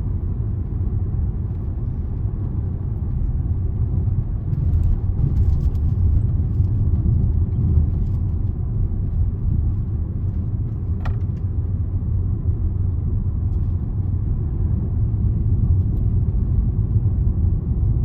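Steady low rumble of engine and road noise heard from inside a moving car's cabin, with a single brief click about eleven seconds in.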